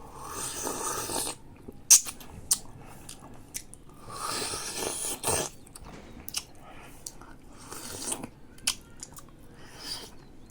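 A person chewing bayberries close to the microphone: wet mouth smacks and clicks, with two longer noisy stretches, one near the start and one about four seconds in.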